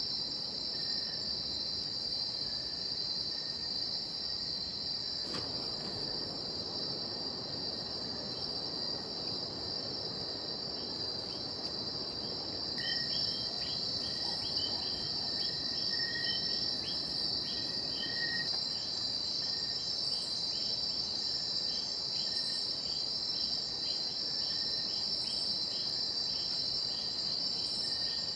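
Rainforest insects singing in a steady, continuous high chorus. From about halfway, another insect joins with a fast run of short repeated chirps a little lower in pitch.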